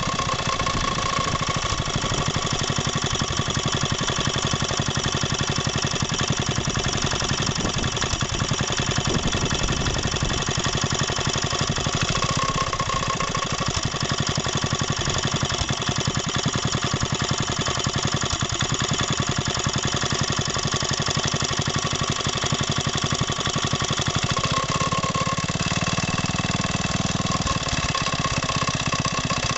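Two vintage Briggs & Stratton single-cylinder engines, an old 5 hp and a blue one, running together at idle with a steady, rapid firing beat.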